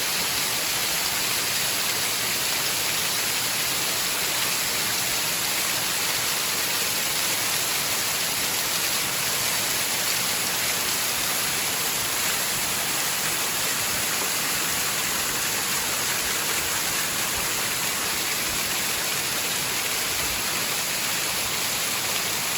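A tall waterfall close by: a steady, unbroken rush of falling water.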